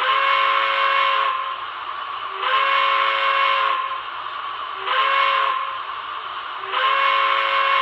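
Broadway Limited M1a model locomotive's Paragon 2 sound system playing its triple-chime steam whistle over a steady steam hiss: two long blasts, a short one, and a final long blast starting near the end.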